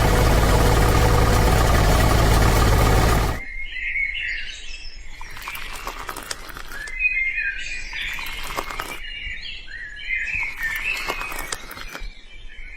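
A loud, steady machine-like noise with a deep hum stops abruptly about three and a half seconds in. Birds chirp after that, with scattered sharp taps and knocks.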